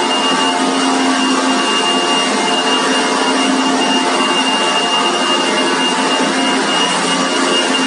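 Poultry-house manure removal machine running steadily, its motor giving an even rushing noise with a constant high whine over a lower hum.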